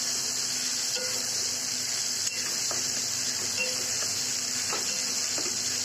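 Chopped tomatoes and ginger paste sizzling in hot oil in a kadhai with a steady hiss while a wooden spatula stirs them, giving a few faint scrapes.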